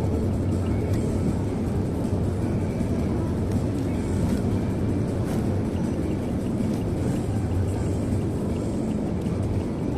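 Steady road and engine rumble of a car driving along a highway, heard inside the cabin.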